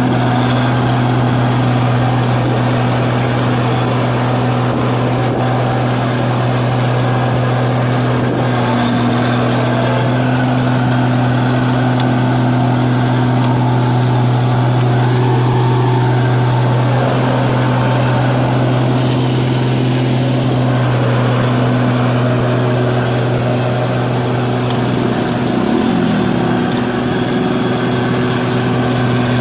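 New Holland 8060 combine harvester running steadily while harvesting rice, a constant engine drone with an even low hum. Its pitch wavers briefly near the end.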